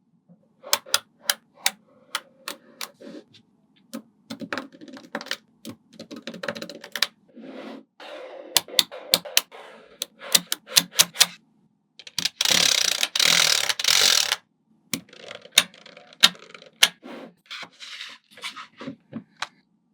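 Small neodymium magnet balls clicking sharply together as they are snapped into place one by one, with an unbroken rattle of many balls about twelve seconds in that lasts about two seconds.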